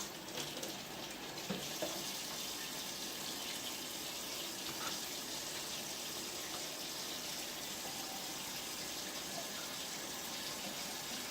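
Kitchen tap running steadily into a sink, a continuous even rush of water.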